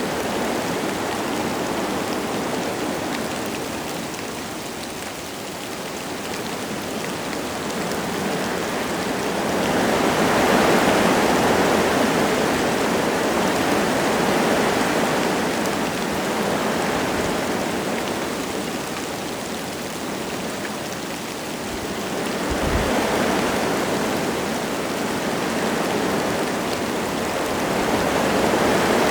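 Wind gusting through forest trees with light rain, the rush swelling and easing in long waves.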